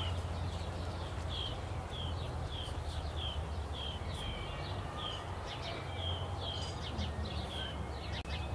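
A bird repeating one short chirp about every half second over a steady low background rumble. The sound cuts out briefly near the end.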